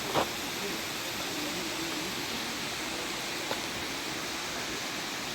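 Steady rushing of flowing water, an even hiss without pitch, with one sharp knock just after the start and a faint click about three and a half seconds in.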